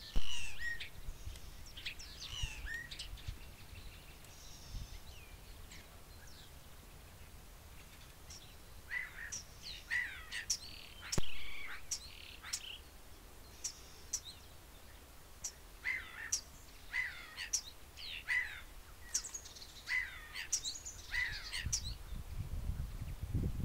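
Small birds chirping and singing in repeated short phrases. Two sharp clicks stand out above them, one at the very start and one about halfway through, and a low rumble comes in near the end.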